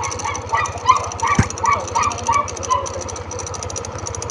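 A dog yaps in a quick series of short, high barks over the steady pulsing of a scooter engine running. There is one sharp click about a second and a half in.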